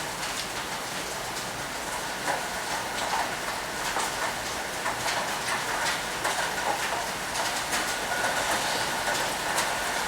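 Heavy rain falling steadily, with irregular sharp clicks and taps scattered through it.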